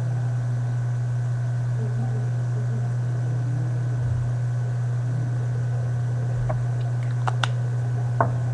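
Steady low electrical hum with faint hiss on the recording, and a few small clicks near the end.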